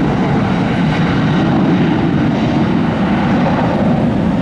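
Jet airliner's engines at takeoff power: a loud, steady rumble with a noisy hiss above it.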